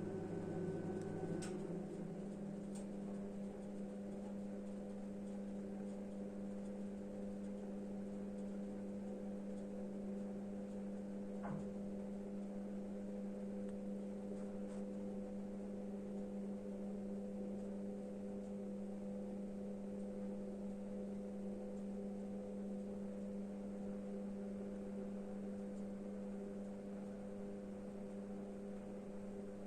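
A steady hum made of several held tones. A lower tone and a higher whine drop out about a second and a half in, and a faint click comes near the middle.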